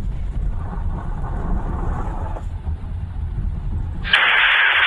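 Steady low road rumble inside a moving car, then about four seconds in a loud burst of radio scanner static, a hiss that drowns out the rumble.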